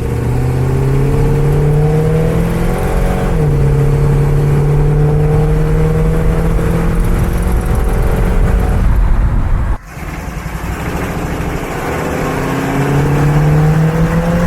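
1941 Chevy pickup's engine pulling under way: the revs climb, drop at a gear change about three seconds in, then hold steady while cruising. After an abrupt break near ten seconds the revs climb again and drop at another shift near the end, over a low road rumble.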